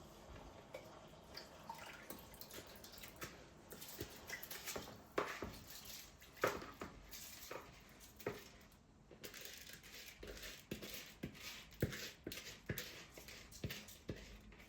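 Kitchen sink sounds: water dripping and trickling, with scattered light knocks and clinks of dishes.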